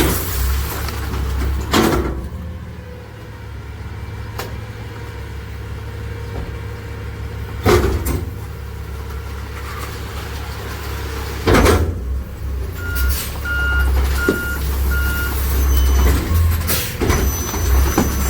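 Diesel engine of a Freightliner rear-loader garbage truck with a McNeilus body, running steadily, with three loud sharp bangs. About two-thirds of the way through, its reverse alarm beeps four times, and the engine grows louder after it.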